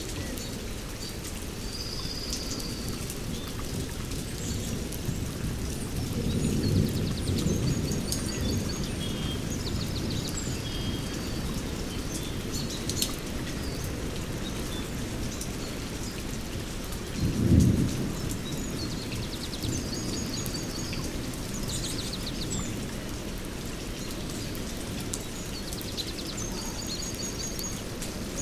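Steady rain in a rainforest with two peals of thunder: a low rumble about six seconds in and a shorter, louder one around the middle. Birds chirp and trill repeatedly over the rain.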